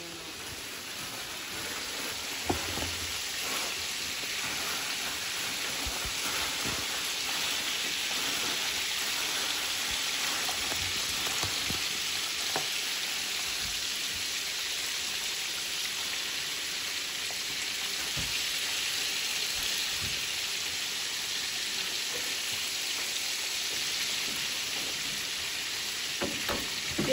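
Breaded chicken pieces shallow-frying in hot oil in a frying pan: a steady sizzle that grows louder over the first couple of seconds, with a few faint clicks.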